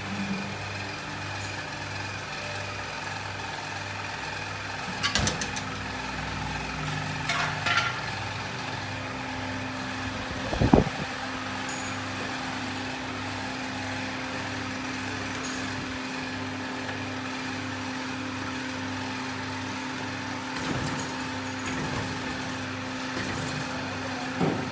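Two-head aluminium cutting machine running with a steady hum, broken by a few sharp knocks, the loudest about eleven seconds in.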